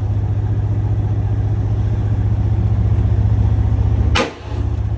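Boat engine running steadily with a low, even drone. About four seconds in, a sharp click, and the drone drops out for a moment before resuming.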